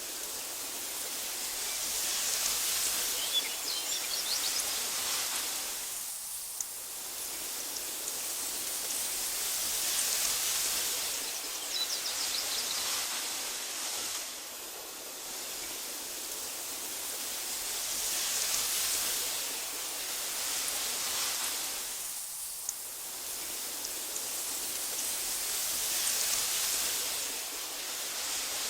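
Wind blowing through tall meadow grass, a steady hiss that swells and fades in slow gusts, with a few faint high bird chirps.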